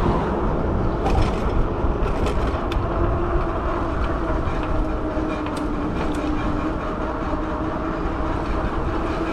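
Fat-tire e-bike riding along, with wind buffeting the microphone and tyre rumble under a steady whine that sinks slightly in pitch. A few light clicks come through.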